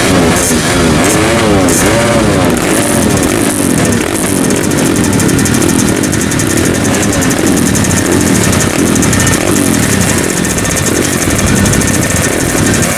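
Grasstrack racing motorcycle engine blipped up and down in quick repeated revs for the first couple of seconds, then held at a busy, high-revving run.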